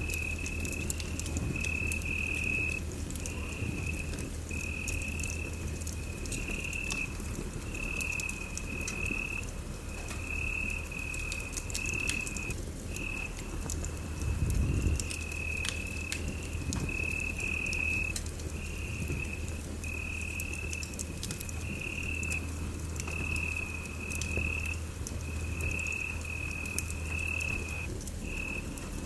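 Wood fire crackling in a fireplace, with many small pops and a low steady hum, and a high chirping that repeats about once a second.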